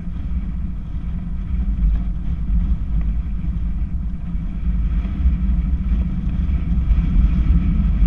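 Strong gusty wind buffeting the microphone: a loud, steady low rumble that swells and dips throughout.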